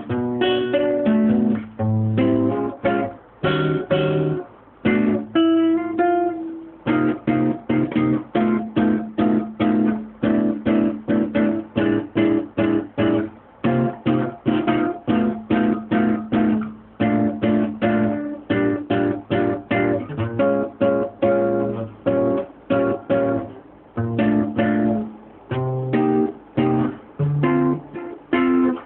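Acoustic guitar music: rapid plucked and strummed notes, several a second, with a couple of held ringing notes about five to seven seconds in.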